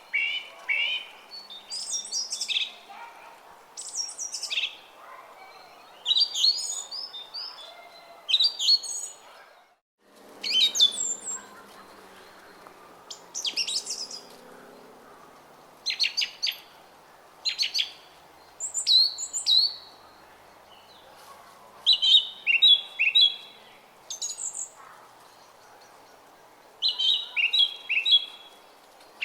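Small songbirds singing short, quick chirping phrases every second or two over the steady babble of a brook. All sound cuts out for an instant about ten seconds in.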